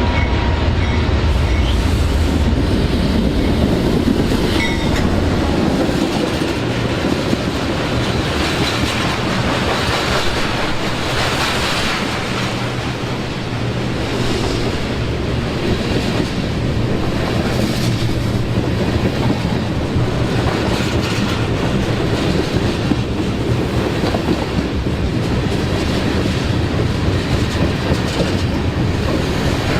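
A train passing close by, its wheels clattering over the rail joints, with a low engine rumble in the first few seconds.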